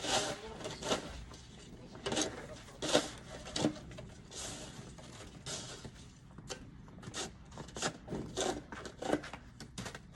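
Snow shovel scraping and knocking on the snowy, icy driveway: a dozen or so irregular scrapes and knocks, some sharp, spaced about half a second to a second apart.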